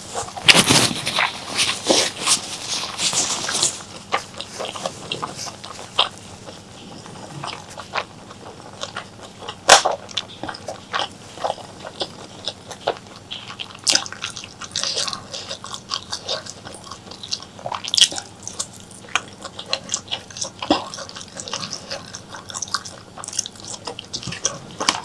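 A person chewing and biting mouthfuls of spicy mutton curry and honeycomb tripe close to the microphone, with many sharp mouth clicks and smacks. A denser stretch of chewing fills the first few seconds.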